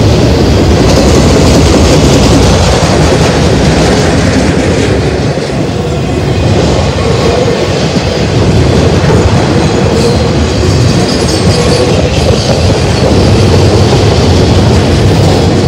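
Freight train cars, intermodal well cars, rolling past at close range: steel wheels on rail making a loud, steady rumble.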